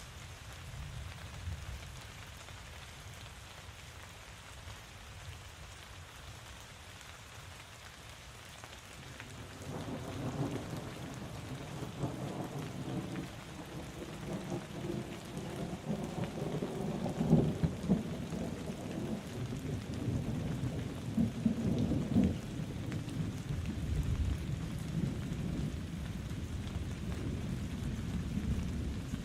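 Steady rain falling, with rolling thunder that comes in about a third of the way through and keeps rumbling, peaking twice, past the middle and about three-quarters in.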